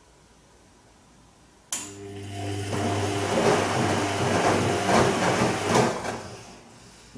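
Bosch Serie 2 VarioPerfect washing machine during a gentle Silk wash. With a sudden click, the motor starts and turns the drum for about five seconds, humming under the swish and slosh of water and laundry, then stops; a short click follows near the end.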